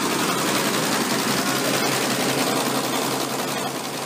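Tractor engine running steadily, then fading toward the end.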